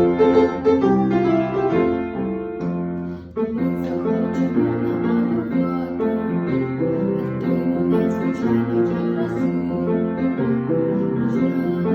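Piano playing the introduction to a children's song: chords and melody notes, with a short dip about three seconds in before the playing picks up again.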